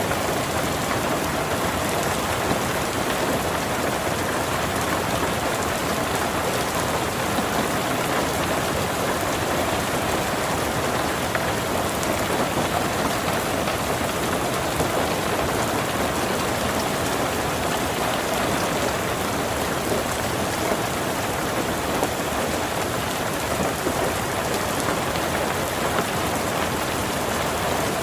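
Steady rain falling on surfaces: an even hiss with scattered drop ticks, unchanging throughout.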